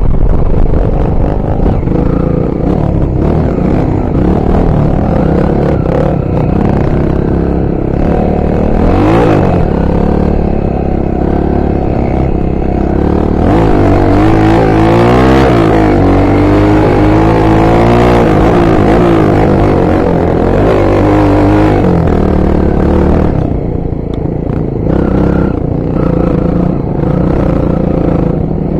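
Honda XR 250 Tornado trail bike's single-cylinder four-stroke engine running under load while being ridden, its pitch rising and falling repeatedly through the middle stretch as the throttle opens and closes.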